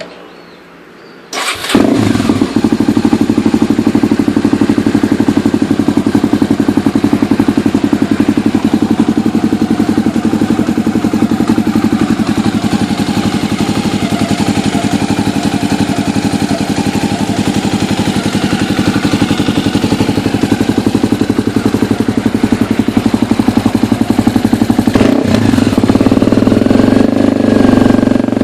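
Honda CBX250 Twister's single-cylinder four-stroke engine starting through an aftermarket COTT exhaust about a second and a half in, then idling steadily with a rapid, even exhaust pulse. It picks up slightly a few seconds before the end.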